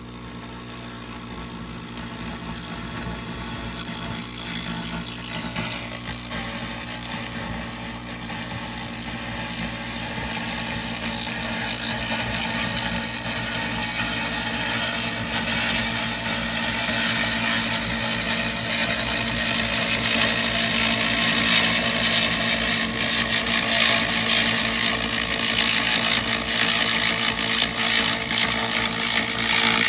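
SFX 2000 W laser rust remover cleaning rust off metal: a steady machine hum under a crackling hiss that grows louder over the stretch.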